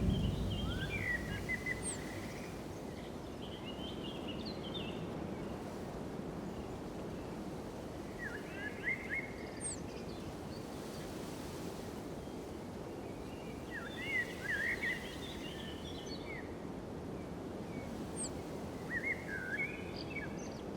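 A songbird singing short, quick chirping phrases every few seconds over a steady low outdoor rumble.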